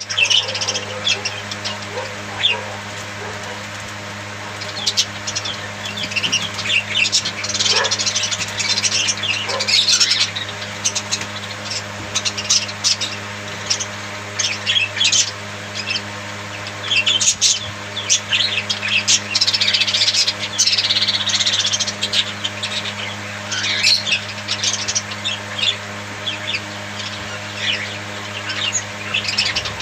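Pet budgerigars chirping and chattering in irregular bursts of quick high-pitched calls, over a steady low hum.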